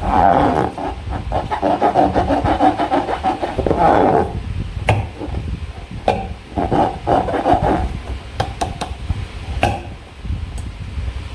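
Slime being squished and worked by hand close to the microphone: bursts of wet, crackly clicking, with a few sharp single clicks in the gaps between.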